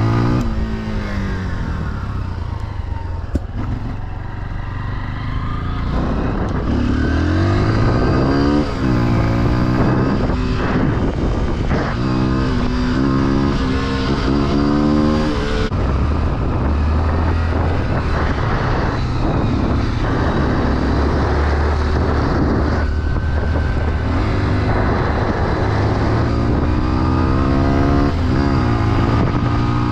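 Off-road vehicle engine running and being ridden, its pitch climbing and dropping again and again as it accelerates, shifts and eases off, over a steady low drone.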